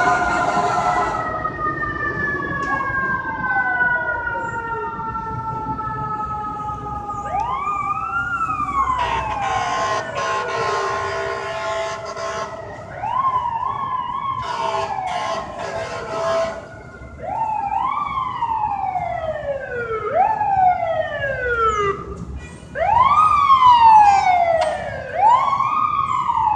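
Fire truck sirens on responding fire apparatus. One long siren tone winds slowly down, and then an electronic wail takes over, sweeping up and down in repeated cycles that come faster toward the end, over the running noise of the trucks.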